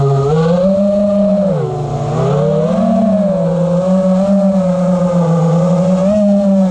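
A 5-inch FPV quadcopter's four brushless motors (T-Motor F60 Pro III) spinning tri-blade props. They give a steady buzzing whine whose pitch dips and rises with throttle, with a deeper dip about two seconds in.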